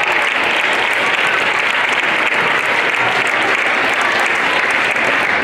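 Audience in a hall applauding steadily.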